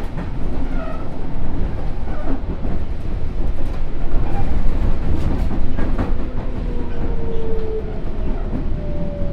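Sotetsu New 7000 series electric train running: a steady heavy rumble with rail clicks. From about six seconds in, a clear electric whine from the Hitachi GTO inverter and traction motors slowly falls in pitch.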